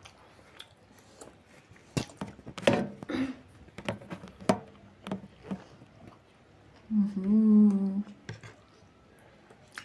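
Close-up mukbang eating sounds: scattered wet mouth clicks and smacks from chewing momo, then one drawn-out "mmm" of enjoyment about seven seconds in.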